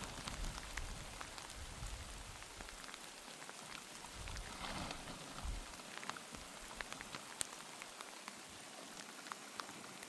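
Rain falling steadily, with many separate drops ticking sharply on a nearby surface. A low rumble under it fades out about three seconds in.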